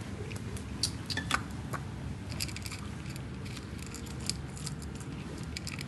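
A stray cat chewing its food: irregular crisp clicks and crunches over a steady low background rumble.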